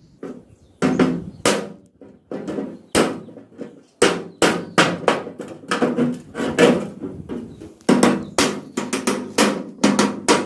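Repeated hammer blows on a tin container (dabba) as it is cut open: an irregular series of sharp strikes, about two a second, each ringing briefly.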